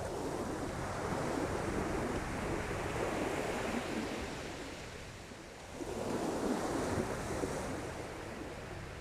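Sea waves washing onto the beach, rising and falling in two swells about five seconds apart, with wind buffeting the microphone underneath.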